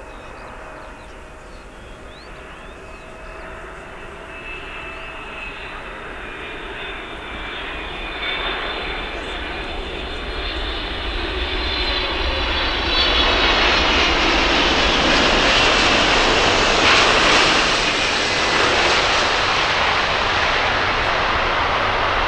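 A passenger aircraft's engines grow steadily louder as it approaches and passes close by: a broad rush with a high whine on top. The sound is loudest in the second half.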